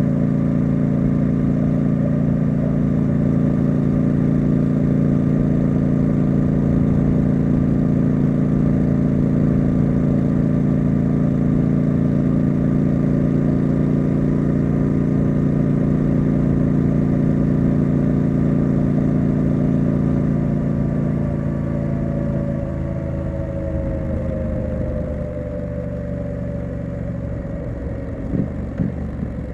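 Triumph Street Scrambler's 900 cc parallel-twin engine and exhaust running at a steady cruise, then, about two-thirds of the way through, the note drops and quietens as the throttle is rolled off and the bike slows toward idle.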